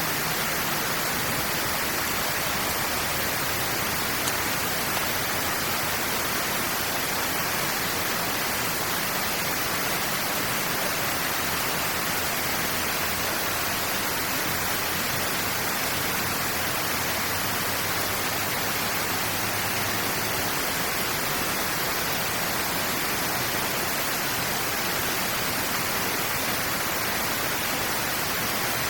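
Steady rushing of flowing water through a drainage channel, an even hiss with no breaks.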